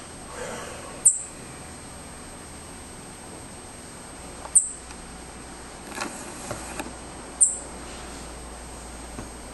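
Fledgling thrush giving three short, very high-pitched calls a few seconds apart, with a few faint ticks in between, over a faint steady high whine.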